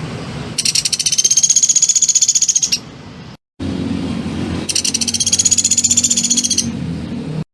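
A songbird giving two long, rapid, high-pitched trills, each lasting about two seconds, with a brief gap between them.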